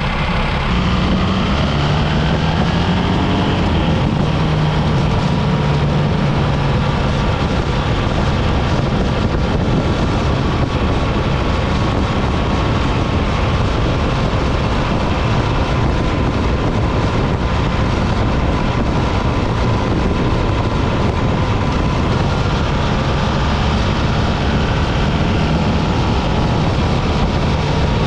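BMW R 1300 GS boxer-twin engine running while riding, under a steady rush of wind and road noise; the engine note rises over the first few seconds, then holds steady.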